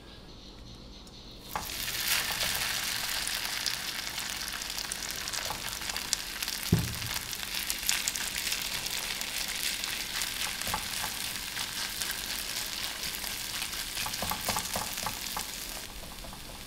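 Shredded raw potato hits hot oil in a nonstick frying pan and sizzles up suddenly about a second and a half in, frying steadily while wooden chopsticks stir it through the oil. There is one knock about seven seconds in and a few light clicks near the end, and the sizzle drops away just before the end.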